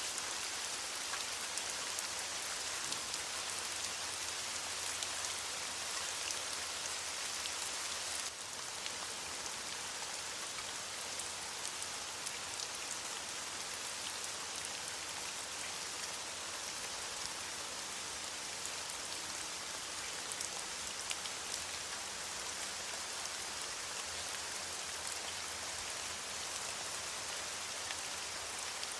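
Steady rain pattering on leaves, a dense hiss of many small drop ticks, slightly softer after about eight seconds in.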